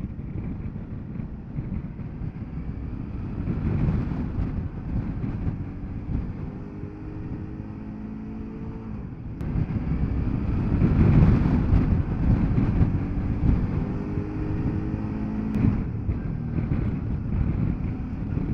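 Motorcycle riding at road speed: a steady rush of wind on the microphone over the engine, whose pitched note comes through clearly twice for a few seconds each.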